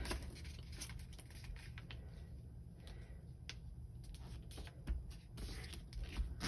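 Faint rustling and crinkling of paper being pulled and creased by hand as a paper airplane's wing is folded up, with scattered soft ticks over a low steady hum.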